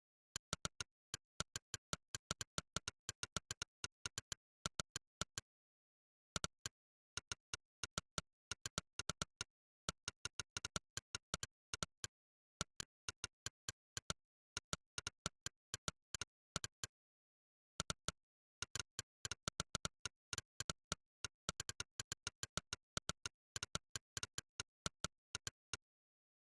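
Monkeytype's synthetic 'click' keypress sound, one short click per keystroke, coming in quick uneven runs of typing with dead silence between clicks. The typing pauses briefly about six seconds in and again around seventeen to eighteen seconds in.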